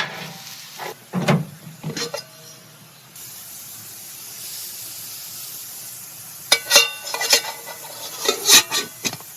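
Food sizzling in a cast-iron pan on a grill, with a steady hiss from about three seconds in. A few knocks come in the first two seconds, and a run of ringing metal clinks of a utensil against the pan or plate comes between about six and nine seconds in.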